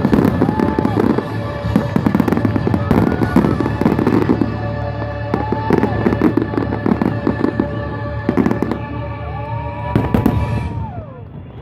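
Fireworks display going off: a rapid barrage of bangs and crackles with whistling shells rising and falling in pitch, over steady background music. The barrage dies away near the end.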